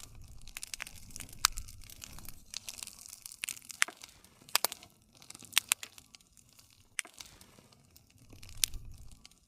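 Campfire burning: sharp wood crackles and pops scattered irregularly over a soft hiss and low rumble of the flames.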